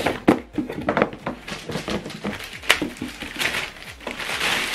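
Cardboard and paper packaging handled during unpacking: a run of irregular taps, clicks and rustles, with a longer sliding rustle near the end.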